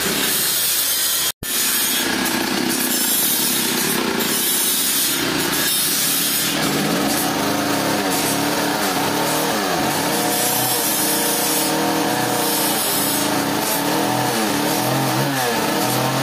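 Sawmill saw cutting through trembesi wood, a loud, rasping sawing noise with a momentary break about a second and a half in. From about halfway a machine's hum comes in, its pitch dipping and recovering again and again.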